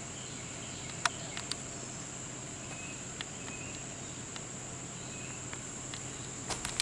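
A steady, high-pitched chorus of crickets trilling, with a few sharp clicks about a second in and again near the end.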